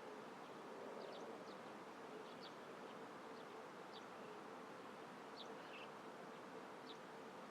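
Faint, steady buzz of a flying insect holding one low pitch, with short high chirps scattered through it.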